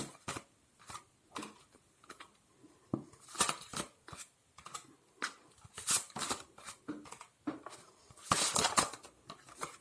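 Tarot cards being shuffled and handled: irregular crisp papery snaps and rustles, with a denser burst of them near the end.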